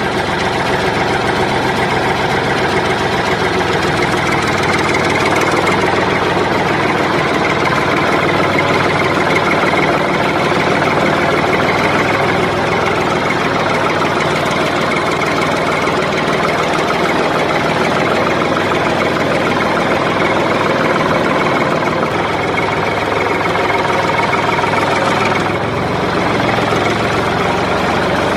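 A small engine or motor running steadily.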